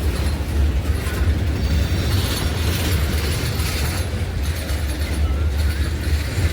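Train rolling past on the rails: a steady, loud low rumble with rail noise.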